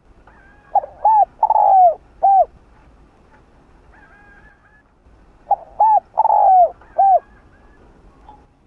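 Spotted dove cooing: two phrases about five seconds apart, each of two short coos, a longer drawn-out coo that falls away, and a last short coo. Faint chirps of other birds sound between the phrases.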